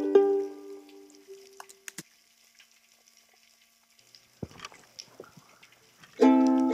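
Ukulele music: a chord rings out and fades, then a few seconds of near quiet with scattered faint clicks and crackles, and ukulele strumming starts again near the end.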